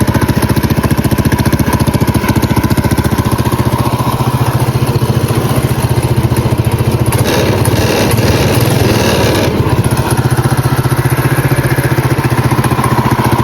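Predator 212cc single-cylinder go-kart engine fitted with a stage one kit, running steadily with an even, rapid firing beat; for a couple of seconds in the middle it gets briefly louder and rougher before settling back. It is running after rejetting, sounding way better than before, though whether it is now too lean is uncertain.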